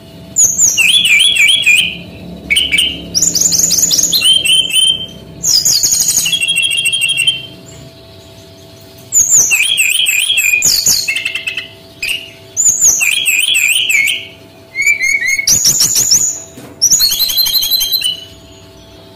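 Male SRDC (sikatan rimba dada coklat, brown-chested jungle flycatcher) singing continuously, in phrases of fast, looping whistled notes about one to two seconds long, broken by short pauses.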